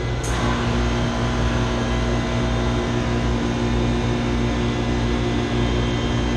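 York chiller and its chilled-water pump running with a steady mechanical hum, circulating water with the pump running normally after its clogged strainer was cleaned. A short click comes just after the start, and a steady humming note joins and holds.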